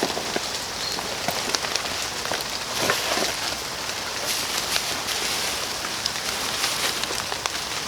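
Steady rain pattering on surrounding surfaces, with many small drop ticks, and one slightly louder patch about three seconds in.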